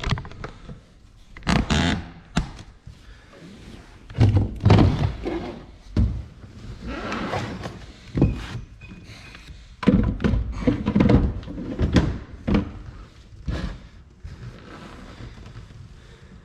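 Irregular thunks and knocks, with short scraping noises between them, from hands-on work with parts and tools. The densest run of knocks comes in the second half.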